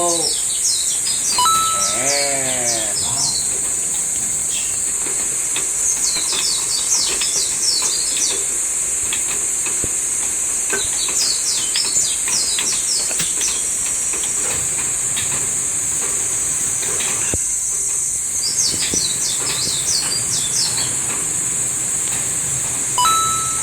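Small birds chirping in repeated clusters of quick high notes over a constant high-pitched hiss, with a short falling call about two seconds in.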